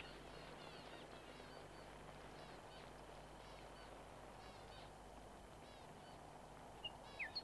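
Faint twittering of small birds, many short chirps throughout, with a clearer falling chirp near the end, over quiet background hiss.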